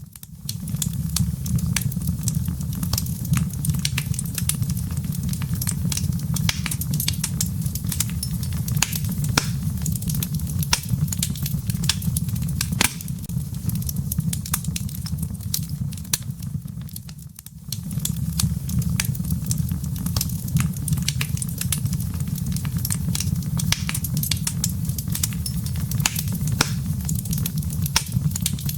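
Wood fire in a fireplace crackling, with frequent sharp pops and snaps over a steady low rumble of burning. The sound briefly fades down and comes back about two-thirds of the way through.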